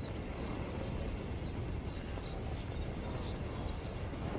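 Outdoor ambience of a steady low rumble, with a bird giving short, high, falling chirps several times, roughly once a second.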